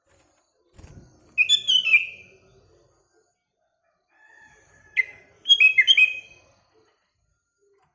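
Sooty-headed bulbul calling: two short bursts of bright, descending whistled notes, about four seconds apart.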